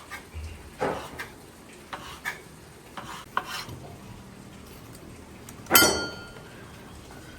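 Kitchen utensils clinking and scraping against pots and dishes in a run of short knocks, then one louder metallic clang about six seconds in that rings briefly.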